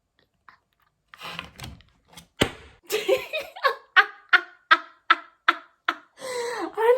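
A woman laughing in a run of short, evenly spaced bursts, about two and a half a second, after a brief rustle and a click.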